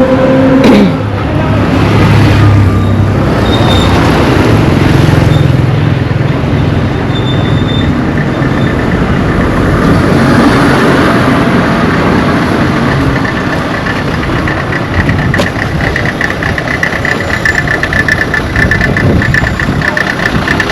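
A motor vehicle's engine running close by, with road noise. A rapidly pulsing high tone joins in and grows stronger toward the end.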